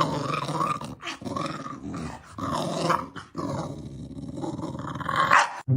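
A dog growling in about four rough stretches with short breaks between them. The sound cuts off abruptly near the end.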